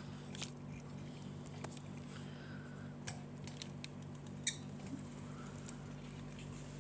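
Scattered light clicks and taps from pet lovebirds moving and pecking about, over a steady low hum.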